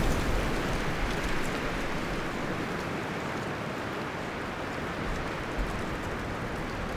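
Wind blowing through forest trees, a steady rustling of leaves and branches. A gust eases off over the first couple of seconds.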